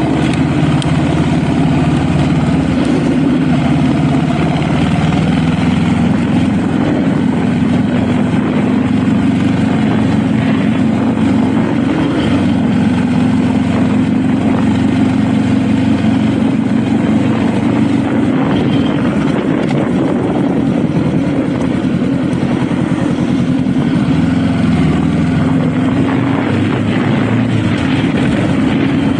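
Honda Rebel motorcycle engine running steadily while being ridden, its note drifting a little in pitch with throttle and speed, under a constant rush of wind and road noise.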